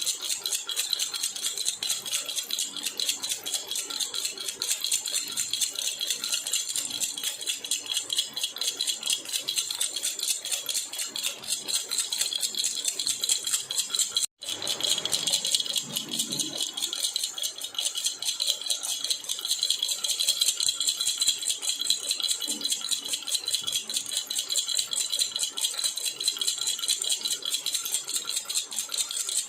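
Jhunjhuna baby rattle shaken rapidly and continuously, a fast, even jingling. It cuts out for an instant about halfway through.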